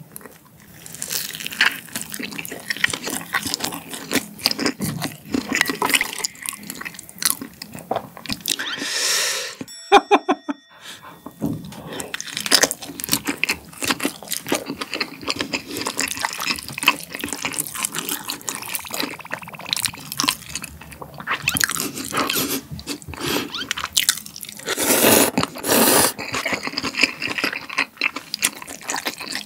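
Close-miked chewing of a soft, very spicy Korean dumpling (mandu): wet mouth clicks and smacks, with a couple of louder airy bursts partway through.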